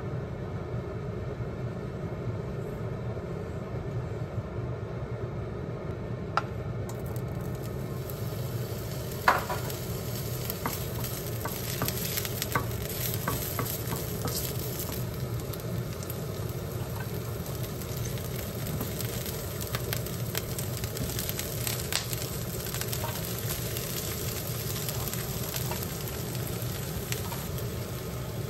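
Garlic slices sizzling in hot oil in a pot, with sharp clicks of a wooden spatula against the pan as they are stirred. The sizzle starts about seven seconds in over a steady low background noise, and the loudest click comes about nine seconds in.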